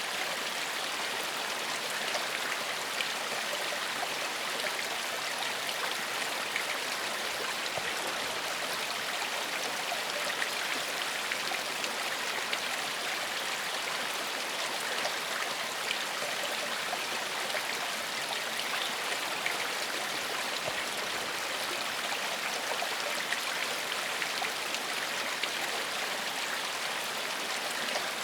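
Small forest stream flowing steadily over stones, a constant even rush of water with faint splashes and trickles throughout.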